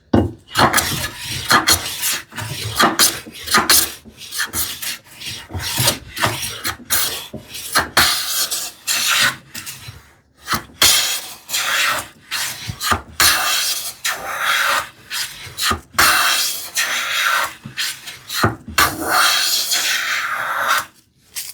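Long-soled hand plane taking repeated cutting strokes along a board's edge, each pass a rasping swish of the iron shaving wood, about one a second with short gaps, and a few longer passes near the end. The board's edge is being planed down to remove a hump and square it.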